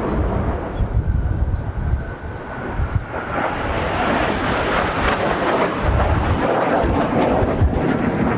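Jet noise from a Blue Impulse Kawasaki T-4 swells from about three seconds in and stays loud. Gusts of strong wind buffet the microphone with a low, uneven rumble throughout.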